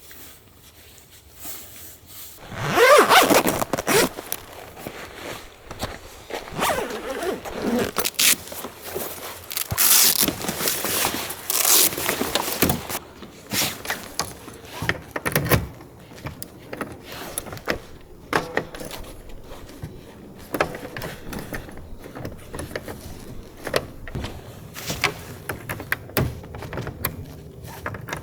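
A zipper pulled hard about three seconds in, then irregular scraping, rustling and light knocks of things being handled.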